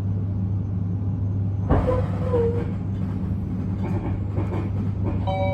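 Interior running noise of an Abukuma Express 8100 series electric train: a steady low hum, with a sharp knock about 1.7 s in and a brief wavering squeal after it. Near the end, the stepped tones of the chime that comes before the next-station announcement begin.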